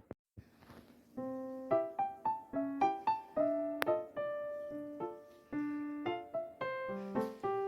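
Background piano music: a light melody of single struck notes that begins about a second in.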